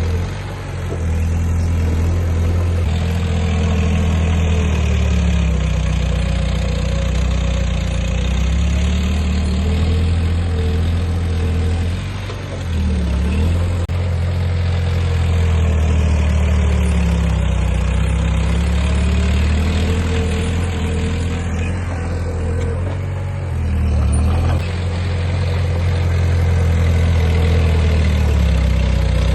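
Heavy diesel engine of earthmoving machinery running under load, its engine speed rising and falling every few seconds and easing off briefly a few times.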